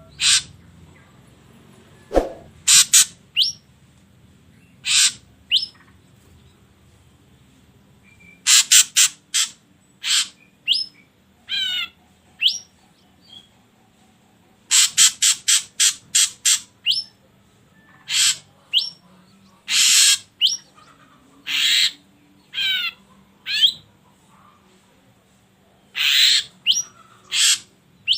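Ashy drongo calling: clusters of two to six short, harsh notes in quick succession, mixed with brief rising whistles and a few wavering trilled notes, with pauses of a second or more between clusters.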